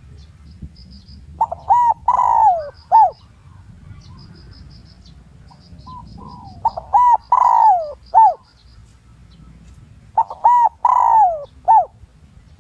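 Spotted dove cooing as a lure call: three phrases of short hoots, each with one longer coo that falls in pitch, spaced a few seconds apart.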